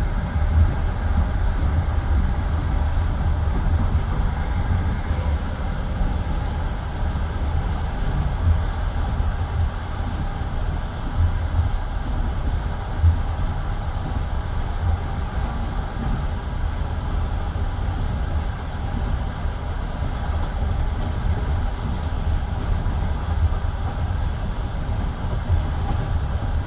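Passenger train carriage running along the track, heard from inside the car: a steady low rumble of wheels on rails with a few scattered louder knocks.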